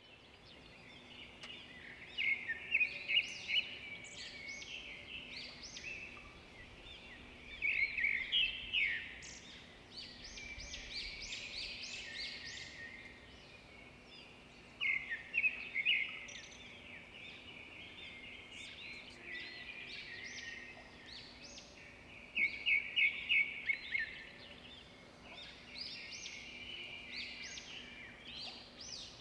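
Birds chirping in bursts of rapid, high notes that come back every several seconds, over a faint steady hum.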